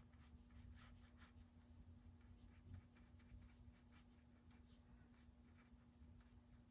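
Faint, soft strokes of a paintbrush on paper, scattered and irregular, over a low steady hum.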